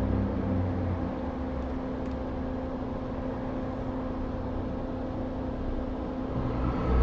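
Steady machine hum with a few constant tones over an even noise.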